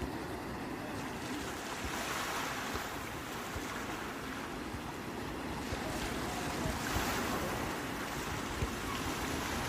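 Sea waves washing onto the shore in a steady wash, swelling as waves break about two seconds in and again around six to seven seconds, with wind buffeting the microphone.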